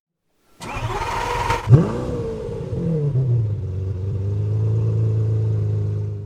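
An engine is cranked and catches, revs up briefly with a rising then falling pitch, and settles into a steady idle.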